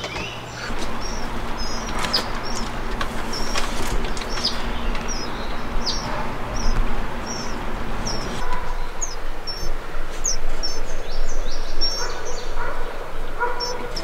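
Wild birds chirping in woodland: a run of short, high chirps, a couple a second, over a steady background hiss.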